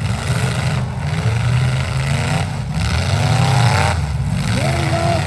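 Truck engine running loudly, revving up in the middle with its pitch rising for about a second and a half before dropping back.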